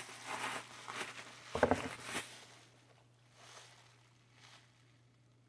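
Rustling and handling of packaging while a 3D printer kit is unboxed, with a short murmured voice about one and a half seconds in. After about two seconds only faint, scattered rustles remain.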